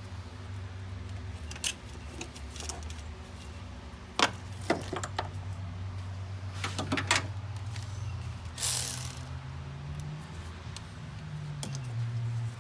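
Scattered metallic clinks and taps of hand tools and small hardware during engine-bay work, with a short hiss past the middle, over a steady low hum.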